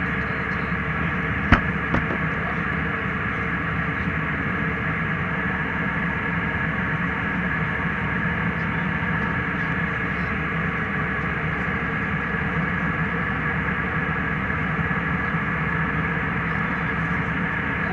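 Airliner cabin noise in flight: a steady rush and hum of engines and airflow at an even level, with a sharp click about a second and a half in.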